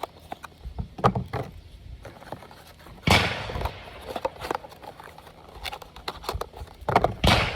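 Two sharp bangs about four seconds apart, each with a short ringing tail, with lighter clicks and knocks between them.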